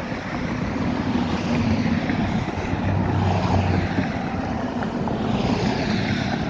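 Steady wind noise on the microphone mixed with road traffic along a street.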